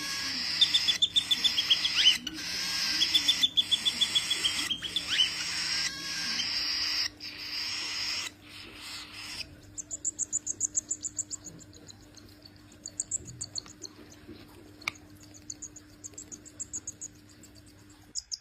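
Baby parrots calling. Repeated calls run over a steady hiss; about nine seconds in the hiss drops away, and the calls turn into fast trains of very high chirps.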